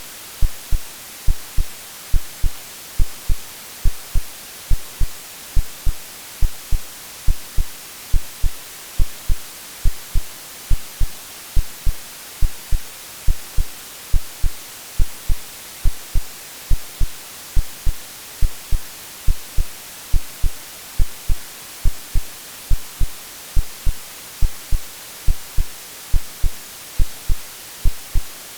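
Synthesized white noise with an AI-generated heartbeat laid over it: a steady hiss with a regular low lub-dub thump about once a second, meant to imitate the womb sound a baby hears before birth.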